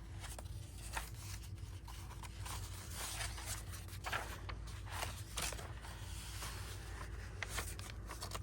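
Paper and small craft pieces being handled and shifted about: scattered light rustles and taps.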